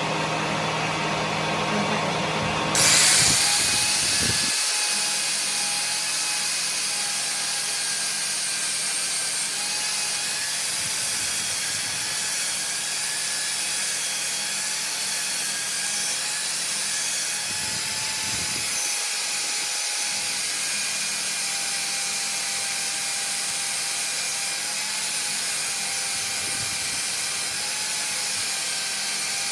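A power tool running steadily on metal, a loud even hiss with faint wavering whines, starting sharply about three seconds in; a low motor hum underneath stops a second or so later.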